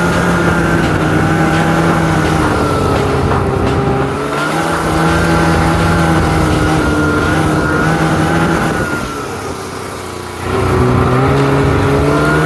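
Ski-Doo Tundra snowmobile's 550 cc two-stroke engine running under throttle at a steady pitch. Near the end it eases off for about a second and a half, then comes back on the throttle.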